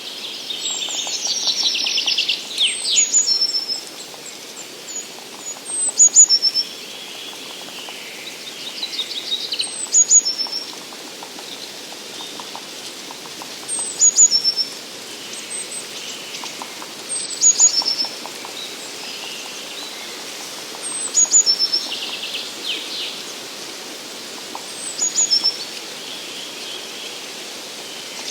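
Forest songbirds singing: one bird repeats a short high-pitched phrase about every three to four seconds, while other birds chirp and trill more softly in between.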